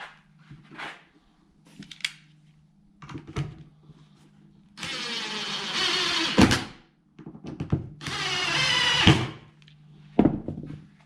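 A hand-held power tool runs twice, about two seconds each time, and each run ends in a sharp knock. Scattered knocks and handling clatter fill the gaps, over a steady low hum.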